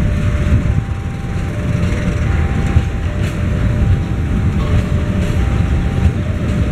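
Loaded rail tank wagons rolling slowly past, their wheels and couplings making a steady low rumble on the track. Behind it a thin two-note electronic tone alternates high and low about every three-quarters of a second.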